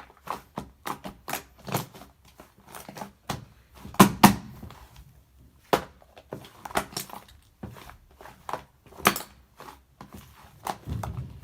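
Shaving foam being pressed and squished, making irregular sticky pops and crackles. The loudest are a close pair about four seconds in.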